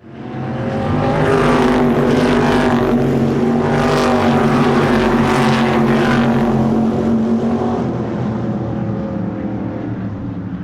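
A motor vehicle's engine running at a steady pitch. It swells in from silence, carries a few brief rushes of hiss in the middle, then slowly fades away.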